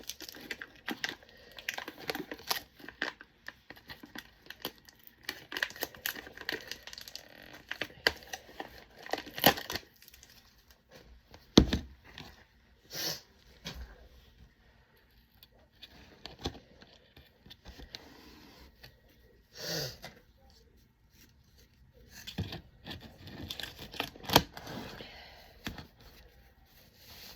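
Plastic packaging crinkling and tearing, with scattered clicks and small knocks, as a hard-to-open container of disinfecting wipes is worked open and wipes are pulled out. There is one sharper knock a little before halfway.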